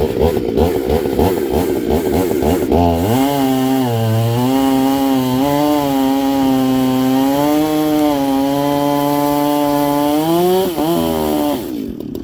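Stihl 440/046 two-stroke chainsaw with a ported cylinder and tuned-pipe exhaust, running rough and uneven for the first few seconds. It then revs up and holds a high, steady scream for about eight seconds before dropping off and going quiet shortly before the end.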